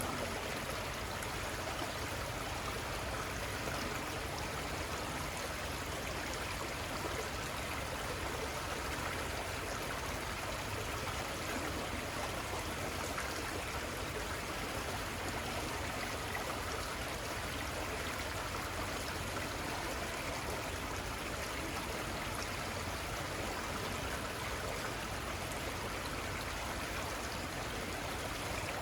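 Steady, even rush of a small river's flowing water, the Little Conestoga River running over its bed.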